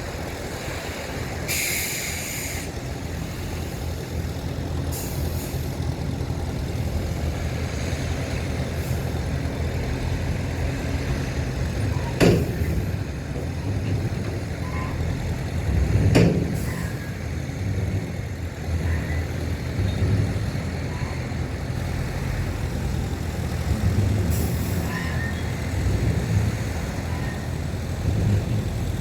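Heavy diesel engines of earthmoving trucks and a bulldozer running steadily, with short air-brake hisses about two seconds in, around five seconds and near twenty-four seconds. Two sharp loud clanks come about twelve and sixteen seconds in.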